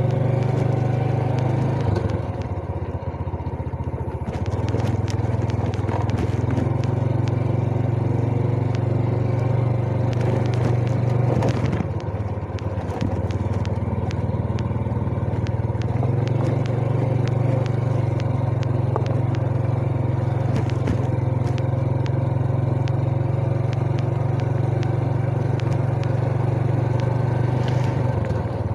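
Yamaha Jupiter Z's single-cylinder four-stroke engine running under way, a steady low engine note that eases off twice and picks up again, with scattered knocks and crackles from the ride.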